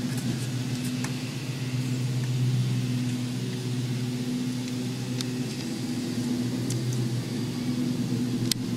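Steady low engine hum, like a vehicle running at idle, with a few faint clicks.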